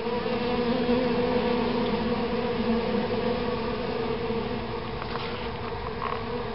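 A swarm of honeybees buzzing: a steady, dense hum whose pitch wavers slightly.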